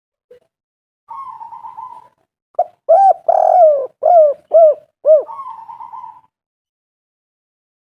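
Spotted dove (tekukur) calling: a short rolling trill, then a run of about six loud, clear coos, each rising and falling in pitch, then another rolling trill.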